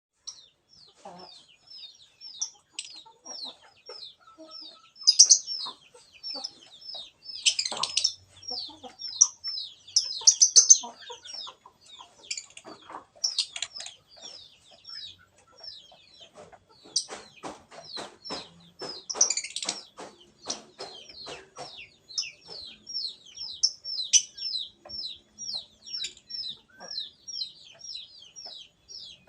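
A lovebird chattering in a long, fast run of short, high chirps, about three to four a second, with louder shrill squawks breaking in several times. A quick series of clicks runs under it for a few seconds past the middle.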